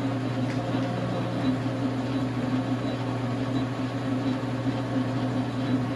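Dar Sin gap-bed metal lathe running steadily, its electric motor and drive giving an even, unchanging hum.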